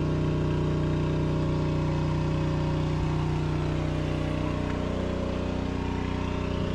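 A motor or engine running steadily, a constant hum whose tone shifts slightly about five seconds in.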